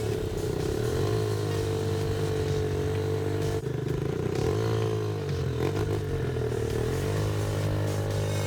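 ATV engine running under way, its pitch dipping and rising again several times as the throttle eases off and opens back up.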